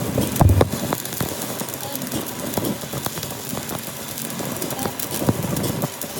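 Workshop noise: a steady crackling hiss with scattered sharp knocks, and a heavy thump about half a second in.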